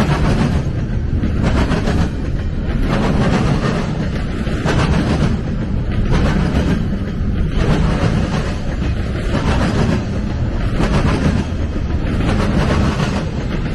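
Double-stack intermodal container freight train rolling past, its wheels clattering on the rails in a steady rhythm about every second and a half over a constant low rumble.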